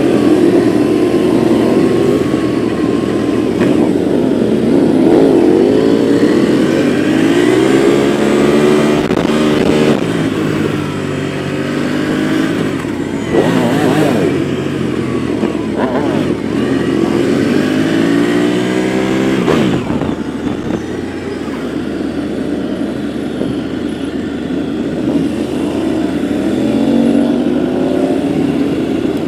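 A stream of motorcycles riding past, several engines at once, their pitch rising with revs and falling away as each bike passes; two bikes go by closest, about halfway through and again about six seconds later.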